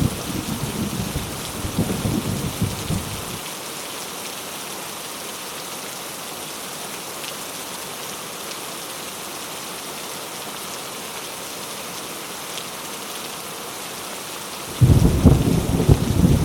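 Heavy rain falling steadily with thunder: a rumble of thunder dies away about three seconds in, leaving only the hiss of the rain, and a new, louder peal of thunder breaks in suddenly near the end.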